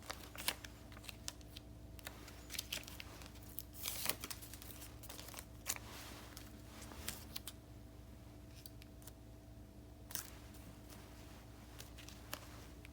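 Scissors snipping paper, with short bursts of paper rustling and crinkling between the cuts, over a faint steady hum.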